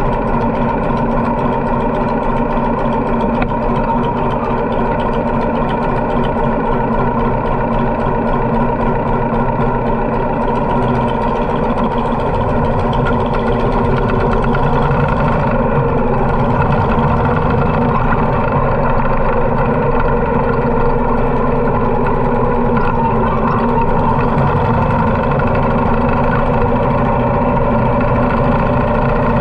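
Harley-Davidson V-twin motorcycle engine running at a steady speed, getting a little louder from about halfway.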